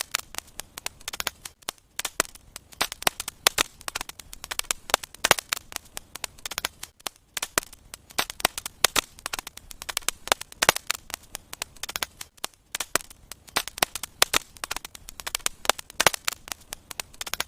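Wood fire crackling in a fireplace: irregular sharp pops and snaps, many a second, over a faint hiss.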